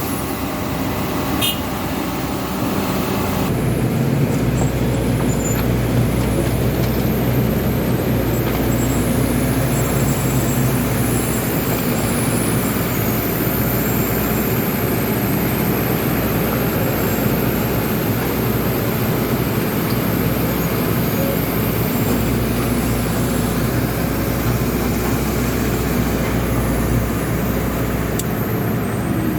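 Kobelco SK200 hydraulic excavator's diesel engine running steadily, with a deep rumble that gets louder about three and a half seconds in and then holds.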